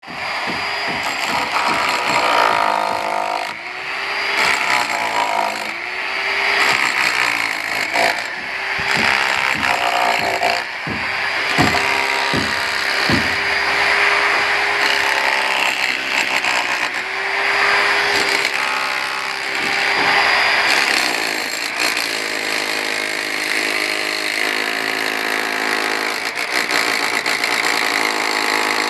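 Electric drill machine running under load, its motor pitch dipping and recovering every couple of seconds as it bites into the work, with a few knocks near the middle.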